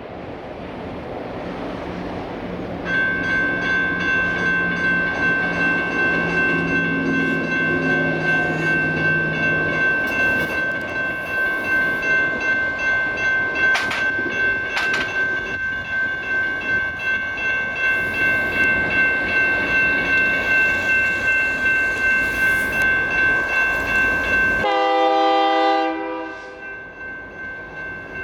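Railroad crossing electronic bells (GS E-bells) start ringing about three seconds in, with a steady, rapid, pulsing ring. Near the end a train horn sounds once for about a second over the bells, the loudest moment, before the bells ring on.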